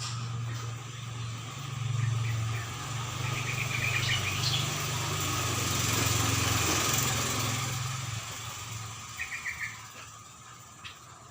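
A motor vehicle passing by: an engine hum that swells and then fades away. Over it come two short bursts of rapid bird chirps, one in the middle and one near the end.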